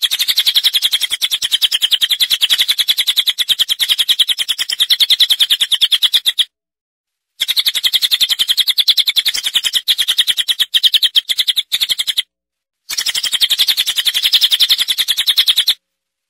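Recorded songbird chirping in a fast, unbroken run of many short, high chirps a second, from a masteran bird-song track. The run cuts to dead silence twice for about a second and stops abruptly near the end, as in an edited loop.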